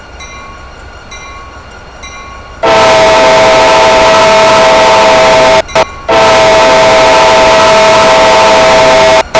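CPKC freight locomotive's multi-chime air horn blowing very loud, steady blasts. It cuts in suddenly almost 3 s in, breaks off briefly about 6 s in, and again near the end. Before it, a faint chime repeats at an even pace.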